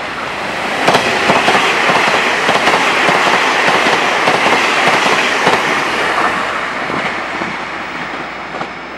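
A Taiwan Railway TEMU2000 Puyuma electric express train passing close by at speed. It is a loud rush of wheels on rail with rapid clacks over the rail joints, swelling about a second in and fading over the last few seconds.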